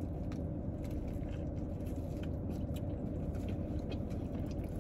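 Soft chewing of a roast beef sandwich with faint scattered mouth clicks, over a steady low hum inside a car.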